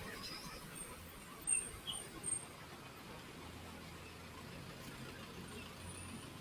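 Kawasaki ZX-4RR's inline-four engine idling low through its SC Project exhaust, with a few short, sharp high squeaks about a second and a half in.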